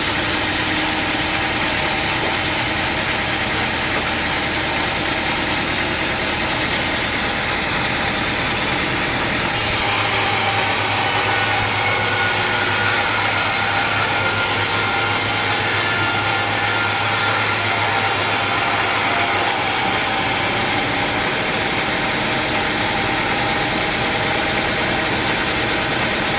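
Sawmill machinery running steadily. About ten seconds in, a saw blade cuts into a teak log, adding a bright hiss that stops about ten seconds later, leaving the machine running.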